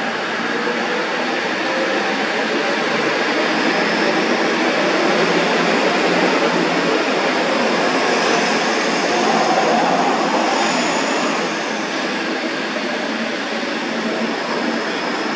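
AKN diesel railcar pulling out of the station and passing beneath: engine and wheels on the rails make a steady loud running noise. It swells to its loudest about two-thirds of the way through, with a faint high whine rising and falling, then eases a little as the train draws away.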